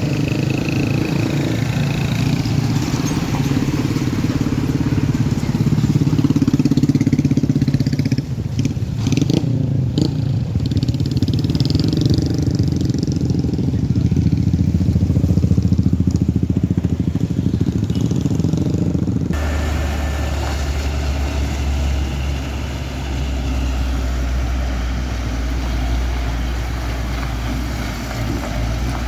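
Vehicle engines running close by, rising and falling in pitch. About 19 seconds in, the sound changes abruptly to a steadier low hum.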